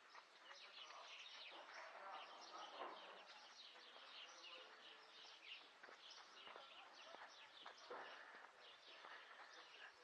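Faint, busy chirping of small birds: many quick, high chirps overlapping throughout.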